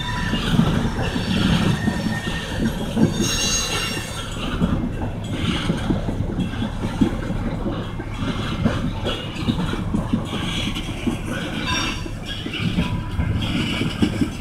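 Freight oil train of tank cars rolling through a grade crossing: a steady low rumble with irregular clattering of wheels over the rails, and a brief high-pitched wheel squeal about three seconds in.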